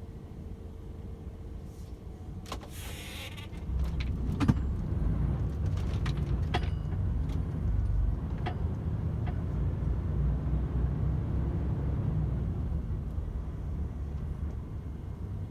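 DAF XF 510 truck cab noise on the move: a steady low engine and road rumble, with a few sharp clicks and a brief hiss a few seconds in, after which the low rumble grows clearly louder and stays up.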